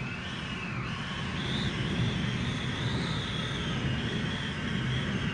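Hurricane-force wind outside the house, heard through closed hurricane impact windows: a steady low rush with a wavering whistle above it that rises and falls slowly.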